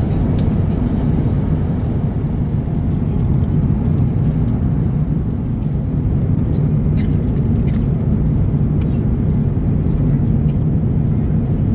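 Steady low drone of an Airbus A350-900 cabin in flight, the engines and rushing air heard from inside the economy cabin, with a few faint clicks.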